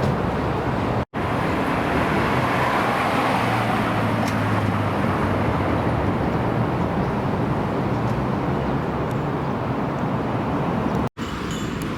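Car engines running with surrounding traffic noise, a steady low engine note under a dense rush. The sound drops out for an instant about a second in and again near the end.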